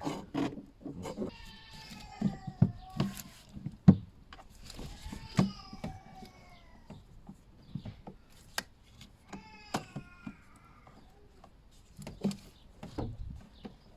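Plastic knocks and clicks from the air filter being jiggled and seated in its airbox and the housing being closed. Three drawn-out squeals that fall in pitch come about a second in, around the middle, and a little past the middle.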